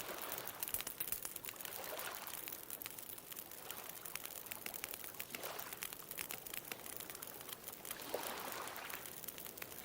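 Bonfire crackling with frequent small snaps, over the wash of ocean waves that swells and fades every few seconds.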